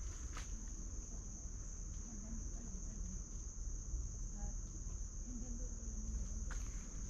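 Insect chorus, a steady high-pitched trill, with a few footsteps on the trail near the start and again near the end.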